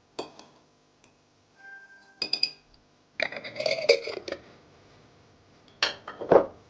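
Dishes and glassware clinking and clattering: a string of short knocks that ring briefly, busiest around the middle and with two loud hits near the end.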